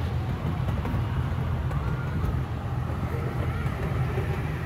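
Steady low rumble of a small amusement-park train running along its track, heard from on board.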